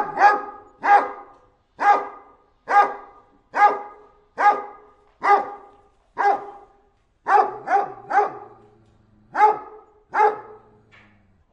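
A dog barking in a steady series, roughly one bark a second, with a quick pair of barks partway through and a fainter last bark near the end.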